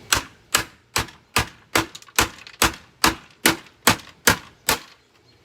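A big hammer striking a Hoover vacuum cleaner's body again and again to crack it apart: about a dozen sharp, evenly paced blows, a little over two a second, stopping near the end.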